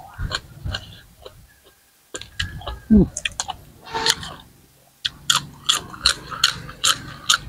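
Close-up chewing of crunchy raw vegetables: scattered mouth sounds at first, then from about halfway in a steady run of crisp crunches, about two to three a second.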